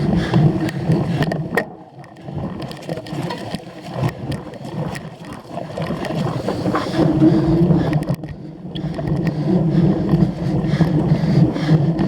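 Cyclocross bicycle ridden hard over rough off-road ground: tyres rumbling and the bike rattling and clattering continuously, louder and softer as the terrain changes.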